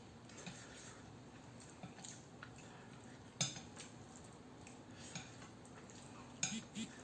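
Eating utensils clicking and clinking against a dish, a few separate sharp clinks, the loudest about three and a half seconds in and two more close together near the end.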